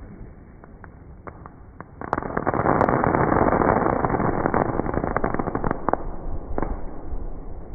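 Fireworks crackling: a few scattered pops, then about two seconds in a dense, rapid crackle that lasts about four seconds and thins out, with one more sharp bang near the end.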